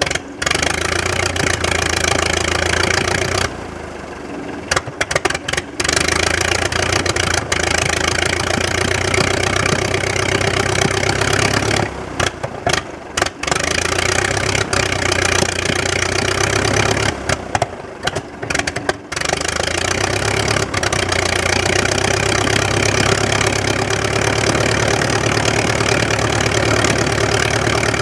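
de Havilland Canada DHC-1 Chipmunk's Gipsy Major inverted four-cylinder engine and propeller running steadily at a constant speed during a ground run-up. The sound cuts out briefly several times, around 4, 12–13 and 17–19 seconds in.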